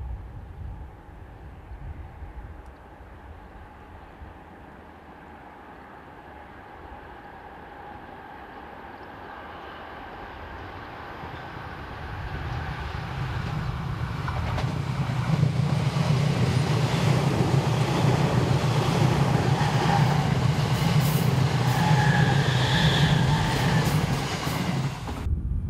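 An electric train approaching and passing: its running noise builds over about ten seconds, then stays loud with a deep rumble and rail clatter before the sound cuts off suddenly near the end.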